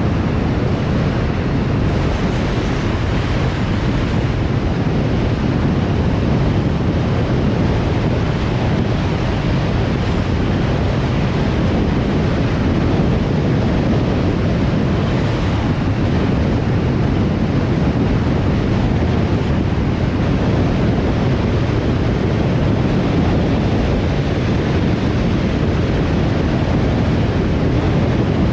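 Steady road and wind noise from a car driving along at an even speed, with tyre rumble and air rushing past.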